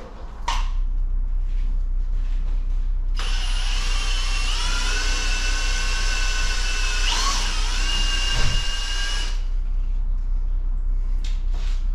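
Hand-held electric power tool, such as a drill, running with a steady high whine for about six seconds, wavering briefly near the end and stopping suddenly. Under it, a steady low hum starts about half a second in.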